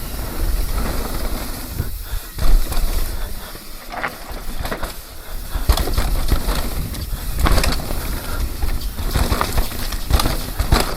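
Full-suspension mountain bike descending fast on a rough dirt trail: wind buffeting the microphone, tyres rolling over the ground and repeated clattering knocks from the chain and frame over bumps.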